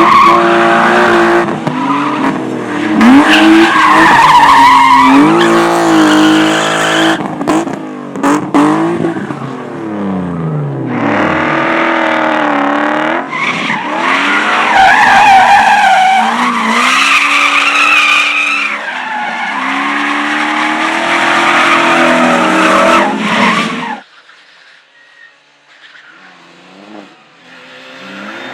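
Slalom competition car driven hard, its engine revving up and falling back repeatedly through the turns, with tyres squealing and skidding on the tarmac. About three-quarters of the way in, the sound cuts off suddenly. A quieter engine is then heard building up near the end.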